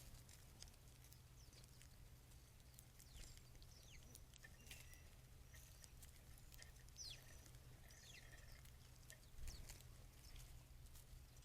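Faint scattered bird calls: short high chirps that slide downward and a few brief whistled notes, over a low steady hum.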